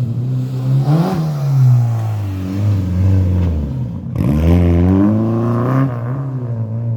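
Historic rally car engine under hard acceleration. It revs up about a second in and falls away, cuts off sharply about four seconds in, then revs up again and falls.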